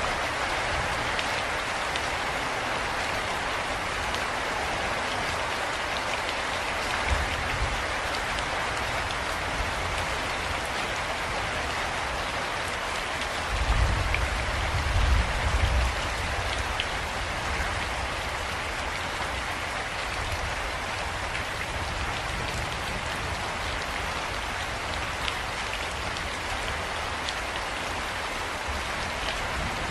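Steady rain falling, with a low rumble for a couple of seconds about halfway through.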